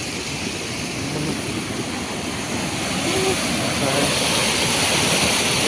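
Steady rush of falling water from a waterfall, growing louder about three seconds in, with faint voices under it.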